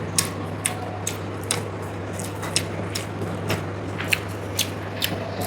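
Close-up eating sounds: a person chewing and smacking her mouth, with short sharp clicks at irregular spacing, about two a second, over a steady low hum.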